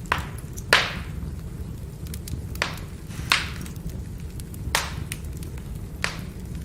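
Firewood burning, with a steady low rumble and scattered faint crackles under about six sharp pops and snaps from the wood. The loudest pop comes within the first second.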